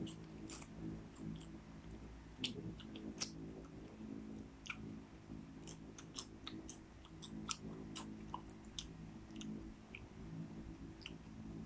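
Popcorn being chewed: irregular crisp crunches and clicks, over a steady low hum.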